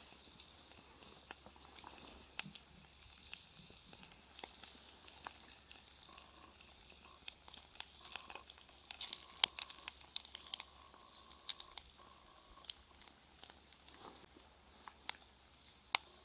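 Chicken pieces frying in a frying pan, the fat crackling and spitting in scattered sharp pops, with the loudest pops about halfway through and near the end.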